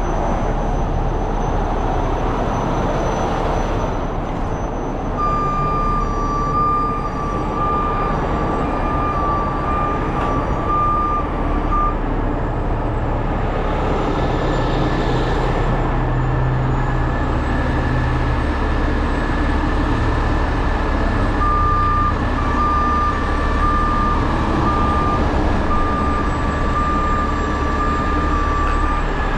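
Heavy tow truck's diesel engine running steadily, with a backup alarm beeping in two stretches of several seconds, starting about five seconds in and again about twenty-one seconds in.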